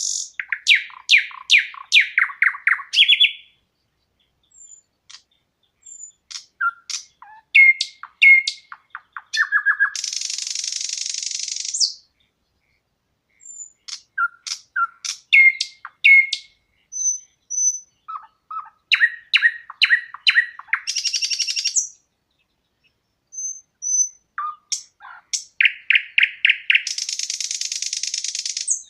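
A songbird singing three phrases, each a run of quick chirps and short whistled notes ending in a buzzy, rattling trill of about two seconds, with dead silence between phrases.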